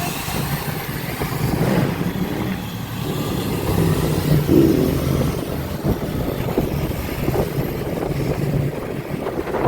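Motorbike and dirt bike engines running and revving, a steady, loud mix of engine noise.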